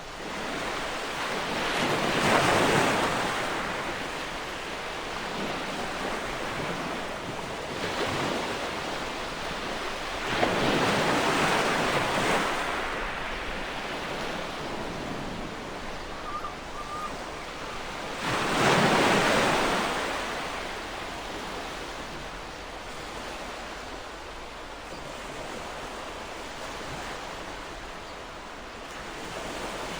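Ocean waves washing onto a shore, with a steady hiss of surf. Three big waves swell and break about two, eleven and nineteen seconds in, a smaller one comes near eight seconds, and it is calmer towards the end.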